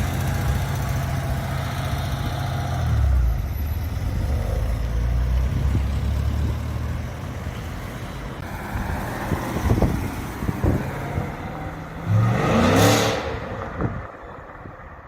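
Sports car exhaust running at a steady low note, then several sharp cracks about ten seconds in, and a short, loud rising rev near the end.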